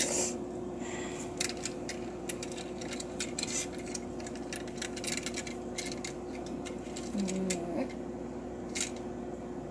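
Scattered light clicks and taps of a plastic toy and its packaging being handled, over a steady low hum.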